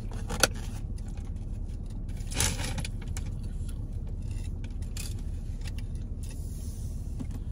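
Car engine idling as a steady low hum, with a sharp click about half a second in and a few short rustles as plastic takeout containers and foil-wrapped food are handled.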